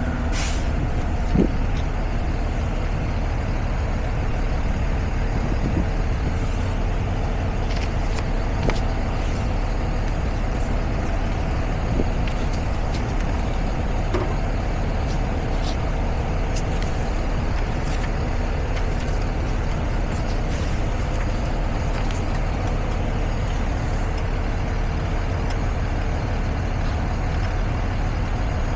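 Semi-truck heard from inside the cab: a steady engine and road rumble, with a few short clicks and ticks.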